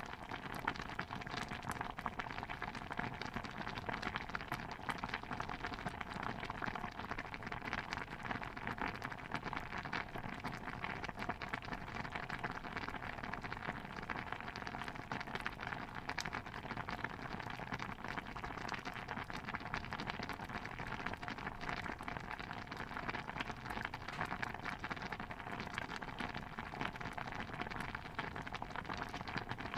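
Stew bubbling steadily in a cauldron: a dense, even patter of small pops that never pauses or changes.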